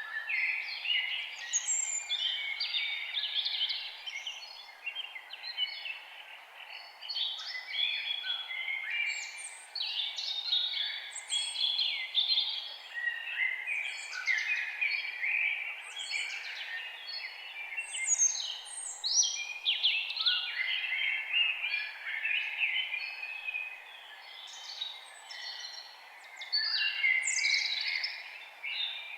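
Many wild forest birds chirping and singing at once, a dense, continuous chorus of short overlapping calls and trills, over a steady background hiss.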